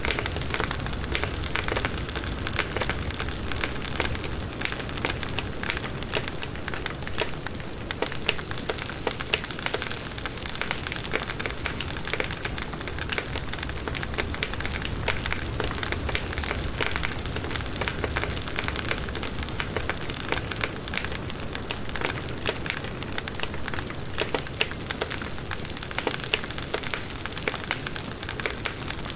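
Firewood burning in a campfire: a steady crackle of many small, quick pops and snaps over a soft hiss.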